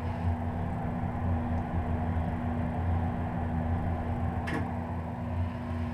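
Rheem Prestige hybrid heat pump water heater running quiet, a steady low hum with a constant tone, and a single short click about four and a half seconds in.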